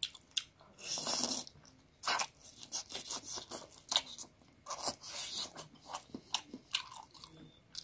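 Close-miked eating of chicken curry with rice by hand: chewing, lip smacking and sucking at a chicken piece, heard as an irregular run of short clicks and smacks.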